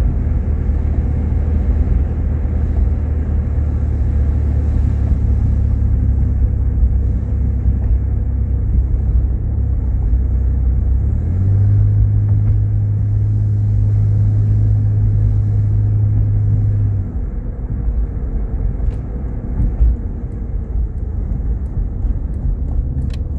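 Vehicle engine and road noise heard from inside the cabin while driving: a steady low drone. It firms into a strong even hum about halfway through and eases off a few seconds later.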